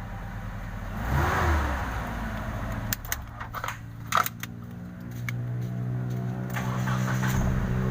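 Mitsubishi Space Gear van engine running, back in working order after a faulty ECM relay was replaced. A few sharp clicks and knocks come about three to four seconds in, and from about five seconds the engine note rises and runs steadier and louder.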